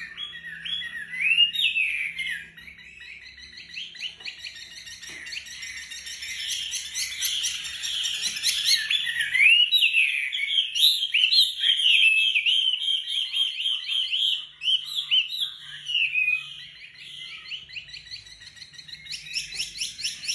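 A wambi songbird singing a long run of rapid, close-packed chirps and whistled notes, the fast 'tembakan rapat' style of song, with quick trilled rattles mixed in.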